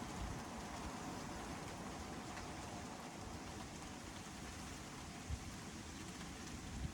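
Steady rain falling, an even hiss, with a few soft low thumps, one about five seconds in.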